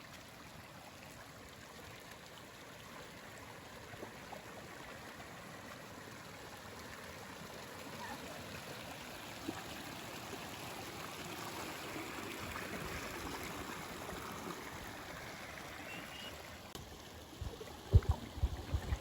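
Steady rush of water from a small waterfall and stream, growing slowly louder. A few sharp low thumps near the end.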